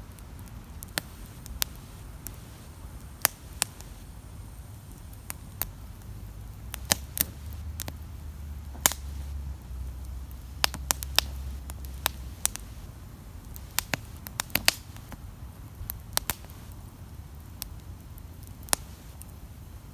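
Wood campfire crackling, with irregular sharp pops and snaps of burning wood, some in quick clusters. A low rumble swells up in the middle and fades again.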